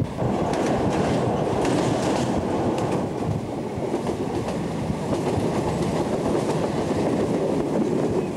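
Passenger train running along the track, heard from inside the carriage: a steady rumble of wheels on rails with faint clicks from the wheels over the track.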